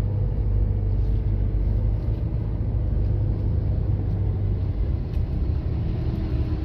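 Car driving in slow traffic: a steady low rumble of engine and road noise.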